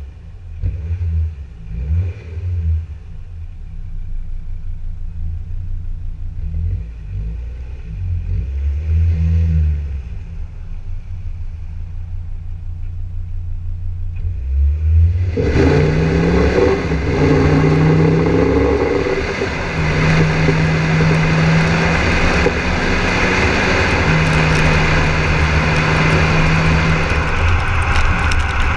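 Volvo XC60 D5 diesel engine through a custom exhaust, giving a low rumble with a few short revs. About halfway the sound turns suddenly much louder and fuller as the engine is put under load, its note climbing and then holding steady.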